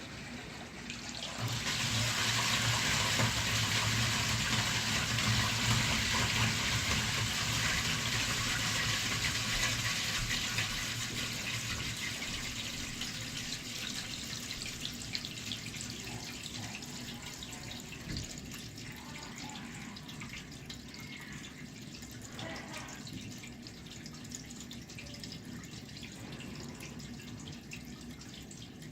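Toilet flushing: a rush of water starts suddenly about a second and a half in, with a low hum under it, then runs on and slowly dies down.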